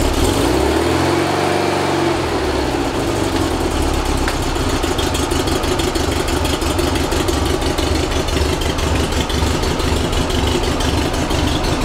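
Rebuilt 1835cc Volkswagen air-cooled flat-four running steadily at idle through its vintage speed muffler on its first start after the rebuild. The engine speed shifts briefly about a second in, then settles.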